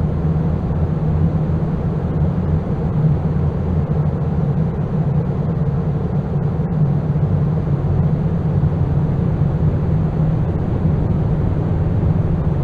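Loud, steady low rumbling drone of noise, heaviest in the bass, with no beat or melody: a sound layer in an experimental ambient noise piece.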